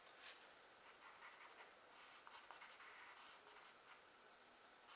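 Faint pencil strokes scratching on drawing paper, short irregular strokes with a longer run of shading in the middle.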